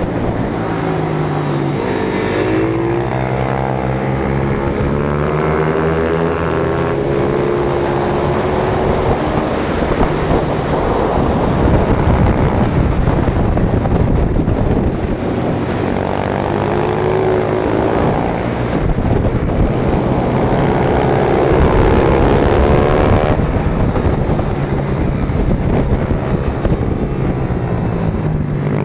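Pit bike's single-cylinder engine heard on board, revving hard and climbing in pitch, then dropping back, several times over as the bike accelerates and slows around a track.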